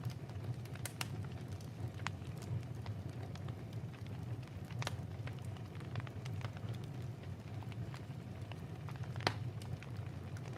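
Wood fire crackling in a fireplace, with sharp pops every second or few seconds, the loudest near the end, over a steady low rumble.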